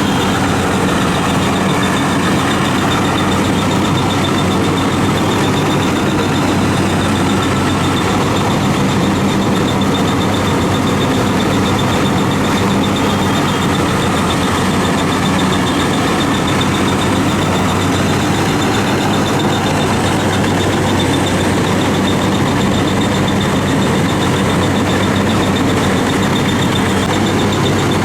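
WD 102 rice combine harvester running steadily: a loud, even engine drone with a thin high whine above it.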